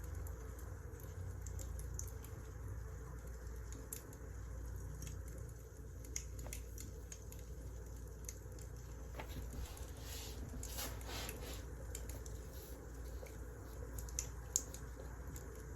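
Wood fire crackling, with scattered sharp pops over a steady low rumble, a denser run of crackles about two-thirds of the way through and one sharp pop near the end.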